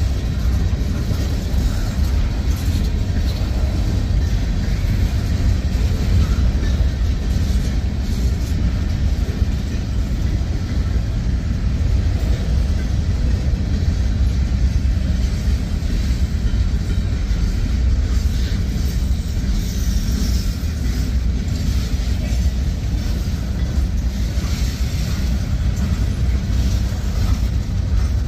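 Freight cars of a Norfolk Southern manifest train, covered hoppers then a boxcar, rolling past on street-running track. Steel wheels on rail make a steady low rumble with faint clicks.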